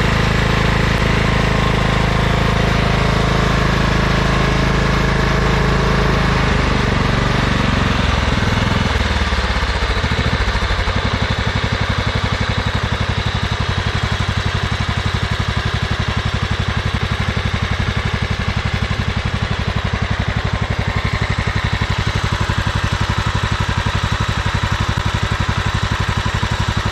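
John Deere LX255 lawn tractor's Kohler CV15 single-cylinder engine running at speed, then slowing to a steady idle about eight to ten seconds in. It runs with its oil freshly topped off, the valve noise mostly gone.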